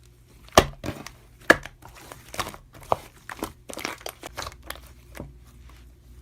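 Slime being squeezed and pressed by hand, giving irregular crackling pops and clicks.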